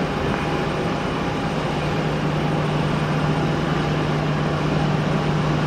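Jet airliner engines running steadily: a constant low hum under an even rushing noise.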